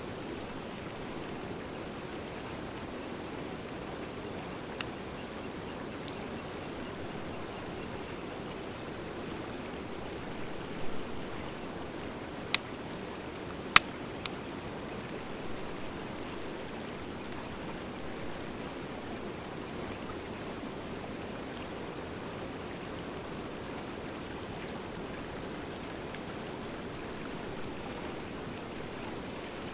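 Wood fire burning: a steady rushing hiss broken by a handful of sharp crackling pops, the loudest two close together about halfway through. The pops are typical of dry hardwood mixed in with driftwood.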